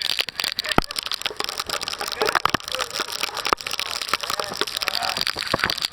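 Heavy tropical storm rain: a dense, steady crackle of drops hitting a surface close to the microphone, with sharp single hits scattered through it.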